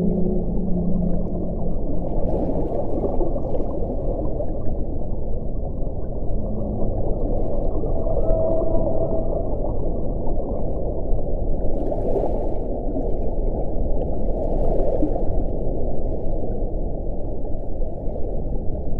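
Wind blowing hard: a steady, dense rush with pitched moaning tones that come and go. Brief hissing gusts come about twelve and fifteen seconds in.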